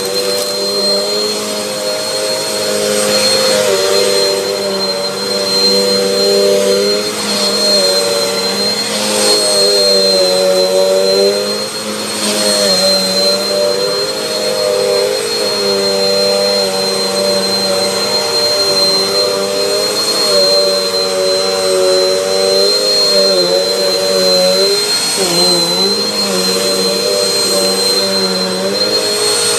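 Bissell AeroSwift compact bagless upright vacuum running continuously: a steady motor hum whose pitch wavers slightly now and then, over a constant high-pitched whine.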